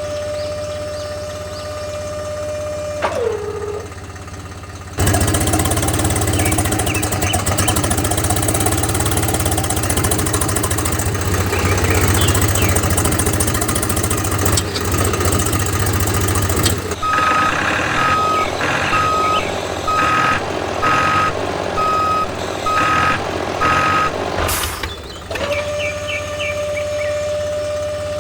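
Steady whine of a small motor that drops in pitch about three seconds in. From about five seconds a louder, rumbling motor run takes over. From about seventeen seconds it carries a reversing beeper sounding roughly once a second, about eight beeps, before the steady whine returns near the end.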